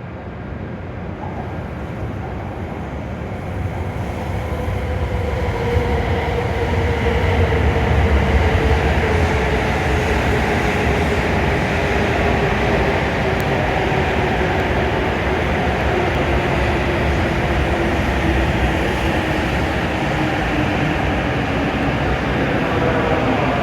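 W7 series Shinkansen train pulling into the platform and slowing. Its running noise grows louder over the first several seconds, and a whine slowly falls in pitch as the train decelerates.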